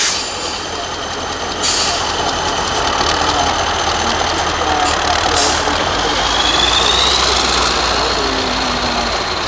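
Diesel engine of an 8x8 Mercedes-Benz trial truck running under load, with two short hisses and a whine that rises about six seconds in.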